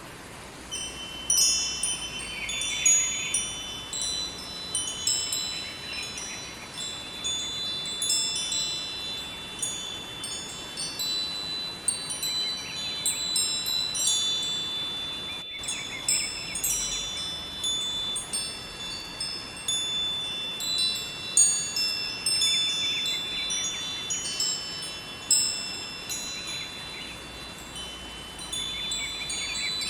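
Wind chimes ringing continuously, many overlapping high metallic tones struck at random, over a faint steady rush of river water. The sound drops out for a moment about halfway through.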